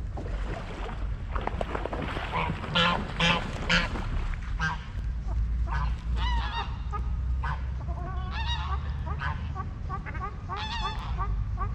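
Waterfowl honking: a long run of short, repeated calls, several loud ones close together about three seconds in, over a steady low rumble.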